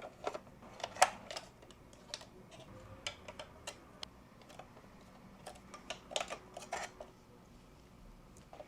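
Small plastic toy pieces clicking and tapping against each other as they are handled, in irregular light clicks with a few sharper knocks.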